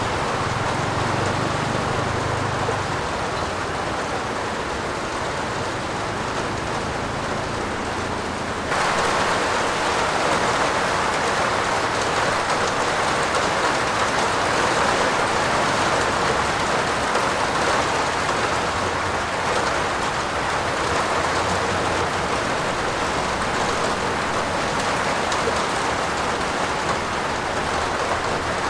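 Heavy rain pouring down steadily, an even hiss; about nine seconds in it abruptly gets louder and brighter.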